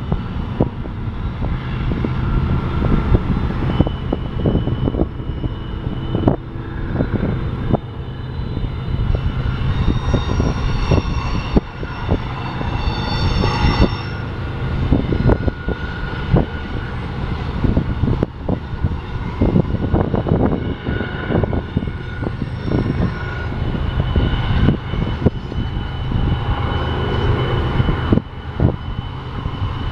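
BNSF intermodal freight train's cars, loaded with truck trailers, rolling past: a steady low rumble of steel wheels on rail with many clacks and knocks. High-pitched wheel squeals come and go over it.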